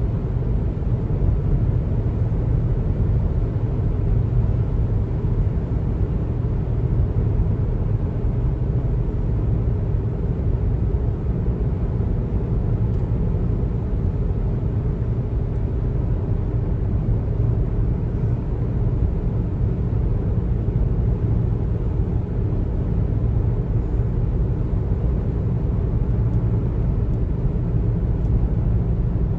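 Steady road noise of a car driving at speed: a constant low rumble of tyres and engine.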